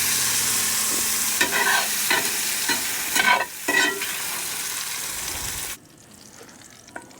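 Vegetables frying with a steady sizzle in a cast iron skillet, a utensil scraping and stirring them in the pan several times. The sizzle cuts off suddenly near the end.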